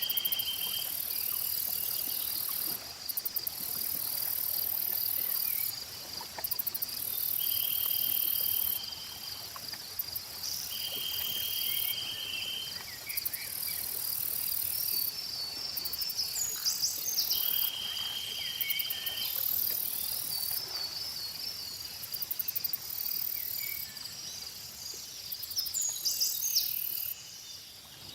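Insects and crickets chirring in the summer night: a high, shrill buzz that starts and stops every few seconds over steady, fast chirping, with repeated short trills. A few bird chirps come in over the second half.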